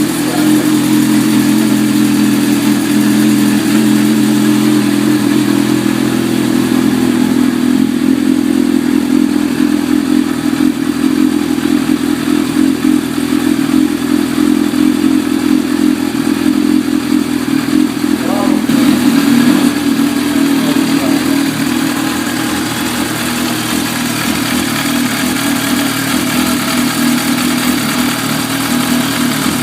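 Yamaha FZR1000 EXUP's inline four-cylinder engine running steadily, mostly at an even idle, on its first start after an engine rebuild. The engine swells a little in loudness about two-thirds of the way through.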